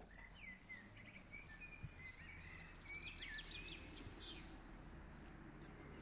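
Faint birdsong: a phrase of short chirps and whistled glides over the first few seconds, with a quick run of notes past the middle, over a steady low rumble of outdoor background noise.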